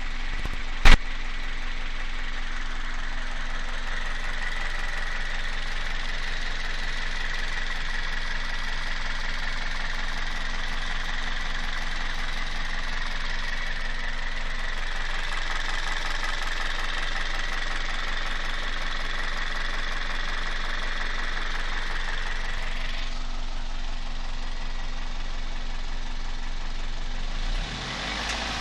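Toyota 1ZZ-FE 1.8-litre four-cylinder engine idling steadily with a knock in it. A single sharp click comes about a second in, and near the end the sound drops in level and turns deeper.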